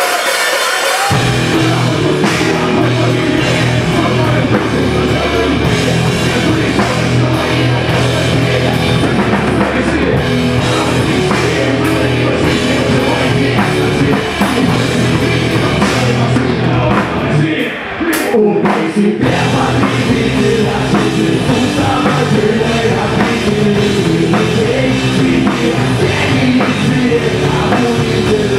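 Rock band playing live with drum kit, in a heavy rock style. The bass and drums come in about a second in, drop out briefly a little past the middle, then resume.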